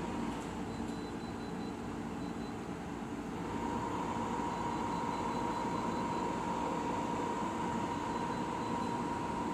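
De'Longhi Pinguino portable air conditioner running on full blast: a steady hum of its blower fan and compressor, with a high whine that comes in stronger about three and a half seconds in.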